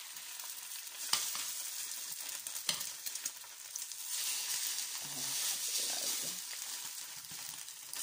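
Egg-dipped white bread frying in oil in a non-stick pan, sizzling steadily, with the sizzle swelling from about four seconds in as the slice is turned over. Two short clicks about a second apart early on.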